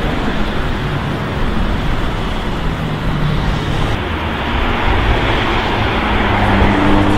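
A car engine running amid city street traffic, its low engine note steady and growing slightly louder near the end.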